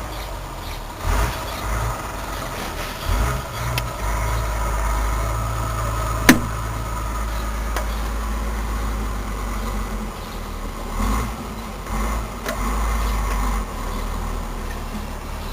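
Washing machine motor running in stretches, a deep steady hum that stops and starts again, with one sharp click about six seconds in.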